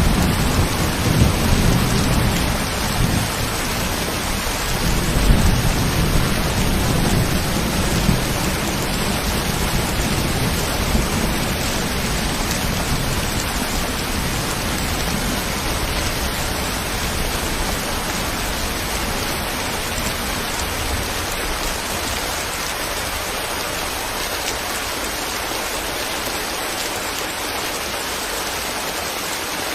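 Steady rain falling, with a low rolling rumble of thunder at the start that dies away over the first dozen seconds or so, leaving the rain alone.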